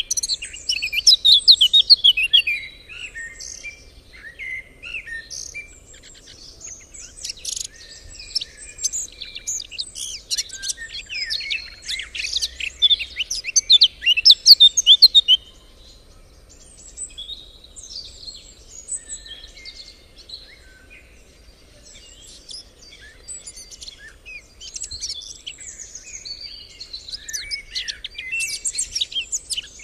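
Several songbirds singing together in a dense chorus of quick chirps and trills. It is busiest and loudest in the first half and thins out after the middle.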